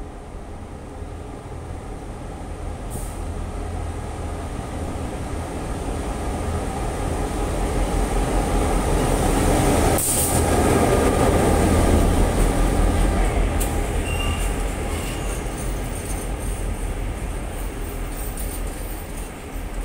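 Queensland Rail 1720 class diesel-electric locomotive hauling the Kuranda Scenic Railway carriages past a covered platform. The low diesel rumble and rolling noise build as it approaches, are loudest as the locomotive passes about ten seconds in, and then slowly ease as the carriages roll by. A brief high squeal comes a few seconds after the locomotive passes.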